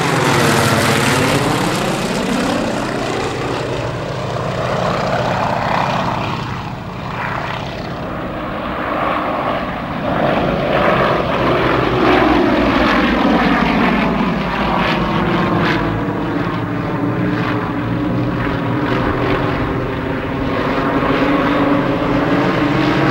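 Several Yak-52 aerobatic trainers flying a display, their nine-cylinder radial engines and propellers running loudly. The engine note falls and rises again and again as the aircraft pass and manoeuvre.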